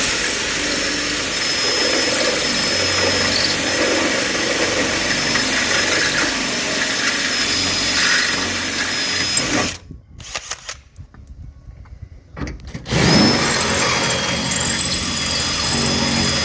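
Power drill drilling out the rivets that hold a truck door's latch, running steadily under light pressure. About ten seconds in it stops, gives a few short bursts, and then runs steadily again.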